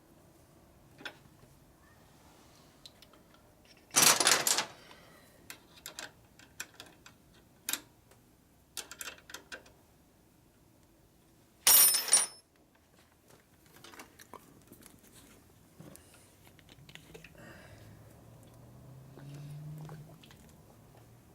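Hand tools and metal motorcycle parts being handled: scattered light clicks and taps, with two louder brief clattering bursts about four and twelve seconds in.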